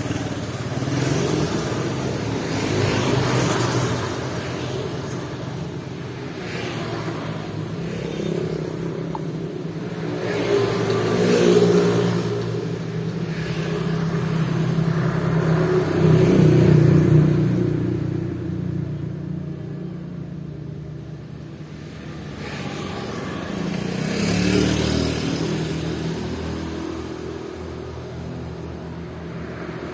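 Motor vehicles on a road, engine hum and tyre noise swelling and fading several times as vehicles pass, loudest around a third and again just past halfway.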